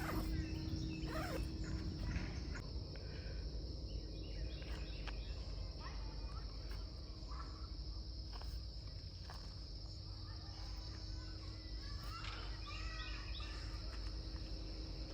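Outdoor ambience: insects trilling in a steady, high, unbroken drone over a low rumble, with scattered short chirps.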